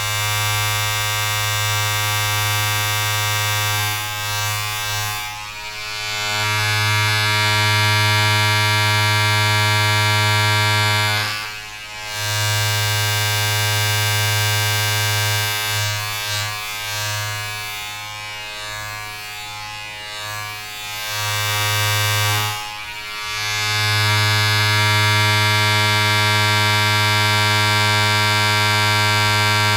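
Steady electric buzz of a small mains-powered appliance or motor, a constant pitched hum. It drops out briefly twice, once near the middle and once about three-quarters through, and is a little weaker in between.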